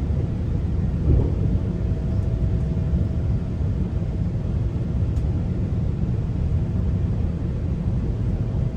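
Steady low rumble of a GO Transit bilevel passenger train running on the rails, heard from inside the coach, with a faint steady hum over it and a brief knock about a second in.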